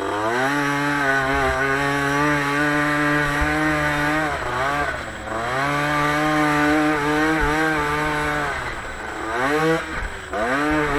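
Motocross bike engine pulling hard at high revs. The throttle is eased about five seconds in and again near the end, with a quick rev before it pulls again.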